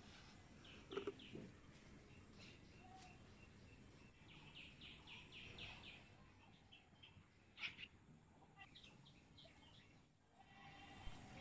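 Quiet rural background with small birds chirping faintly: short high notes in quick runs, the longest run of six or seven notes about halfway through.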